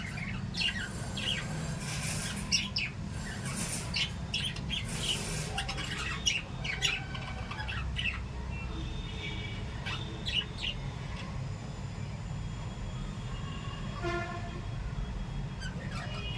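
Small pet parrots chirping and squawking in quick, sharp calls, thickest in the first ten seconds or so with a few more calls near the end, over a steady low hum.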